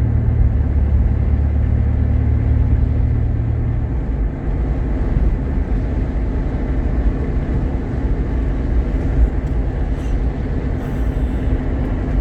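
Jeep Grand Cherokee's 3.7-litre V6 and road noise heard from inside the cabin while driving: a steady low rumble with an engine hum, its deepest drone easing off about four seconds in.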